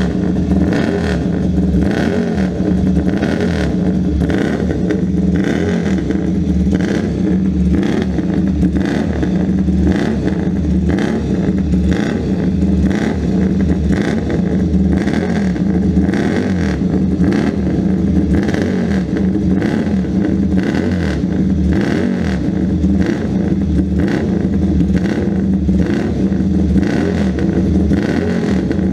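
1964 Bianchi 500 twin race bike's 498cc twin-cylinder engine running loud and steady, with an even pulsing beat and little change in revs.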